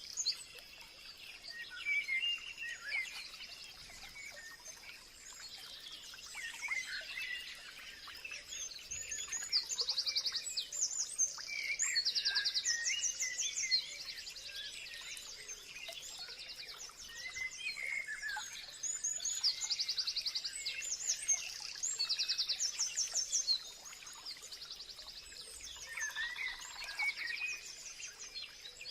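Several birds singing and calling together, one repeating a fast trill of rapid high notes every few seconds while others chirp and whistle in between.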